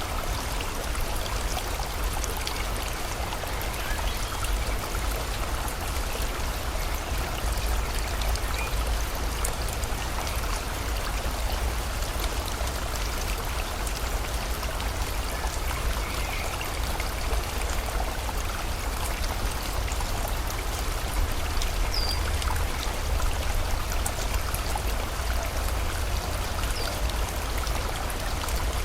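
Steady rushing water of a river together with falling rain, an even unbroken wash with a deep low rumble underneath.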